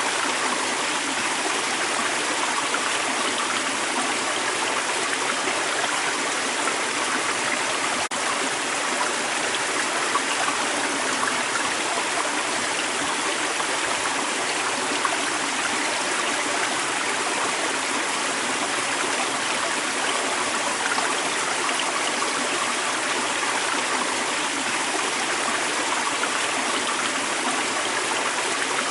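Creek water running steadily over stones, a continuous rushing and trickling.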